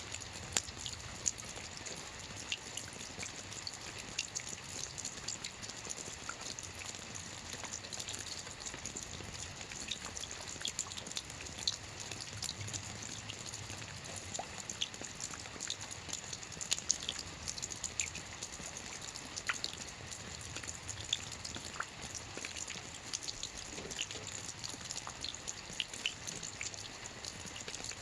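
Steady rain falling on a lake's surface: a constant hiss of rainfall with many separate drops pattering and plinking on the water.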